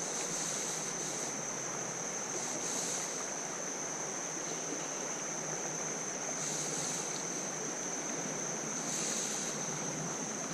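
Steady rush of flowing creek water, with a thin, steady high-pitched tone over it.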